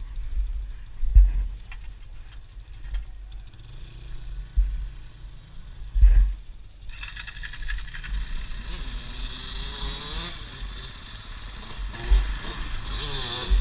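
Off-road motorcycle engine running and revving, its pitch rising and falling from about seven seconds in, with low thumps on the microphone throughout.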